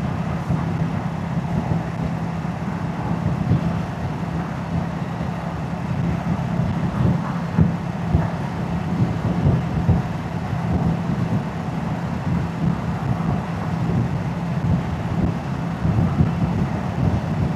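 Moto Guzzi motorcycle's V-twin engine and exhaust running at a steady pace while riding.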